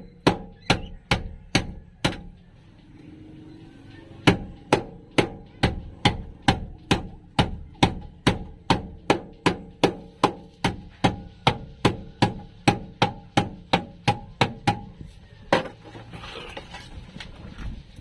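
Hammer striking a welded sheet-metal floor patch in a steady run of blows, about two and a half a second, each with a short ring. The blows pause for about two seconds early on and stop about three seconds before the end.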